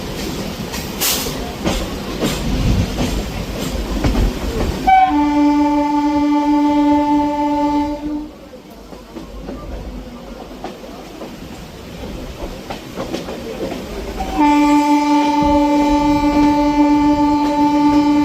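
Local commuter train running with rumble and wheel clatter, then a train horn sounds two long single-pitch blasts: one about five seconds in lasting about three seconds, and another near the end.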